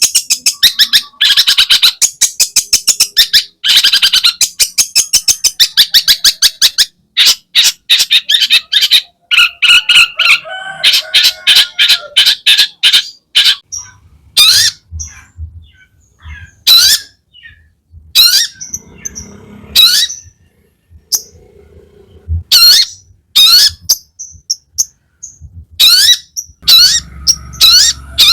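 Long-tailed shrike (cendet) singing its varied, mimicking song. It opens with a fast rattling chatter of rapid notes, turns into mixed chirps and short whistles, then gives separate sharp high notes that fall in pitch, about one every second or two. A faint low hum runs under the second half.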